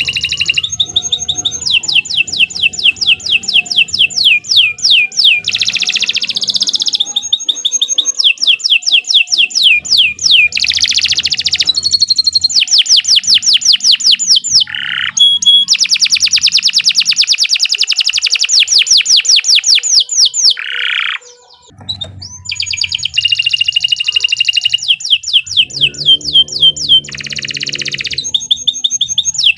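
Domestic canary singing long, fast trills of rapidly repeated high notes, one roll after another, with a brief break about two-thirds of the way through.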